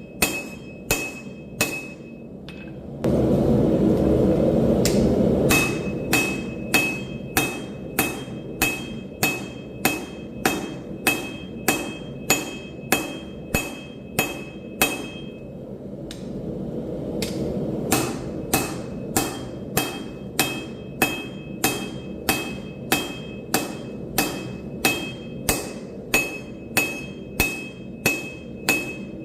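Hand hammer forging steel on an anvil, steady blows about two a second, each with a bright anvil ring. About three seconds in, a loud rushing noise cuts in for a couple of seconds while the hammering stops. The blows briefly falter again past the halfway point.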